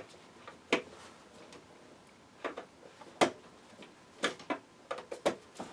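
Irregular sharp plastic clicks and taps, about eight of them, as wiring harness connectors on a power seat's motors are handled and pushed into place.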